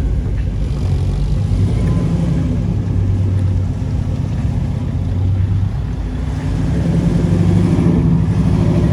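A car engine running close by as a steady low rumble. It dips briefly and grows louder in the second half.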